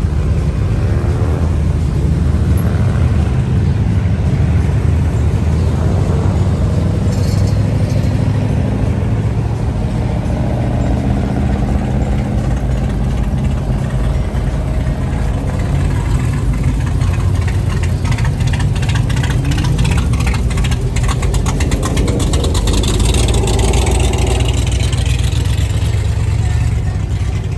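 Car engines running as cars pass, with a steady low exhaust rumble and some revving that rises and falls in pitch.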